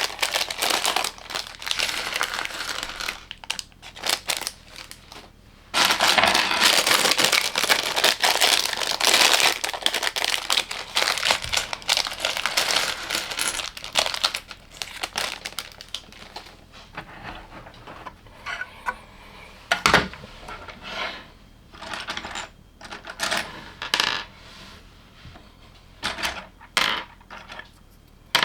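Small plastic LEGO pieces clattering and clicking as they are handled, with a long spell of dense rattling in the first half, then sparser separate clicks and one sharp click about twenty seconds in.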